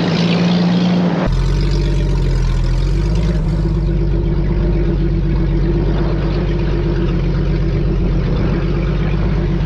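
A vehicle engine running steadily at low revs. The sound changes abruptly about a second in, from a noisier stretch to a clean, even engine drone.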